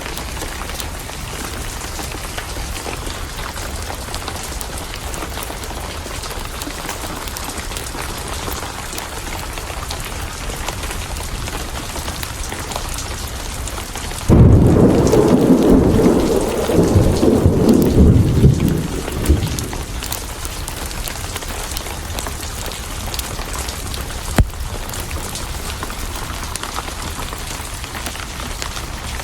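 Steady heavy rain, with a thunderclap about halfway through: a sudden loud crack that rolls into deep rumbling in surges for about five seconds before dying away under the rain.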